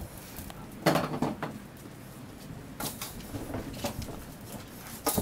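Scattered knocks and clattering from bullmastiff puppies scrambling and playing on a hard floor, the loudest clatter about a second in.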